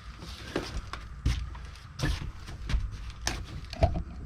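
A string of sharp clicks and knocks from hand tools, bits and loose bolts being handled during an engine teardown, two of them louder, about a second in and near the end, over a low steady hum.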